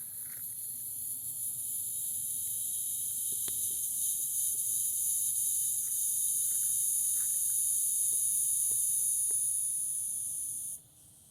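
A chorus of male cicadas calling from the trees: a steady, high-pitched buzz that swells over the first few seconds, holds, and cuts off suddenly near the end.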